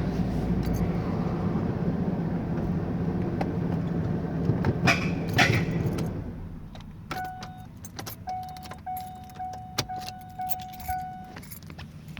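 1997 Ford Expedition V8 running with the grinding noise the owner hears after a cold start, then falling quiet about six seconds in as it is switched off. A dashboard warning chime then rings repeatedly for several seconds, with keys clicking and rattling.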